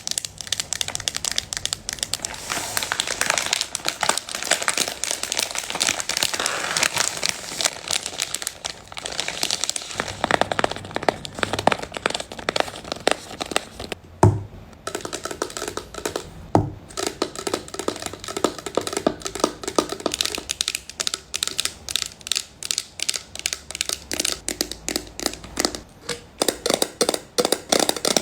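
Long manicured fingernails tapping and scratching rapidly on packaging and containers, with crinkling. About halfway through come two heavier knocks, and after them the taps ring with a pitched note, as on a hollow can or jar.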